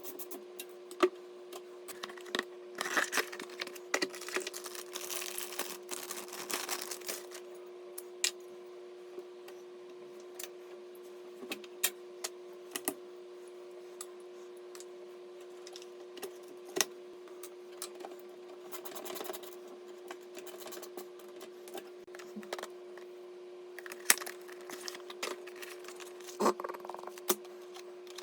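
Scattered clicks and short runs of tapping, as on a computer keyboard, over a steady hum.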